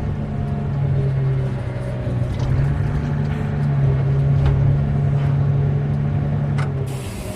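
Mining haul truck's diesel engine running with a steady low drone, with a brief hiss near the end.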